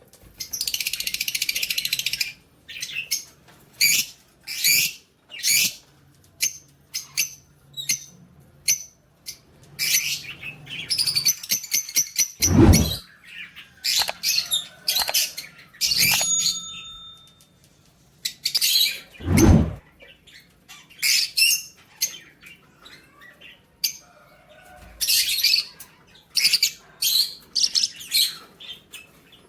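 Lovebirds chirping and squawking in short, high-pitched calls, often in quick strings, with brief pauses between bouts. Two louder, deeper bursts come about halfway through.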